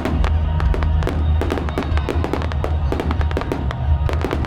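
Fireworks display: aerial shells going off in rapid, overlapping bangs and crackles, several a second, over a steady low rumble.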